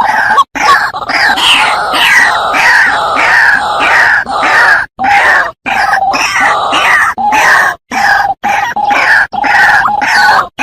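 White-breasted waterhen calling: a loud, continuous run of harsh, repeated croaking notes, broken every second or two by short silent cuts in the recording.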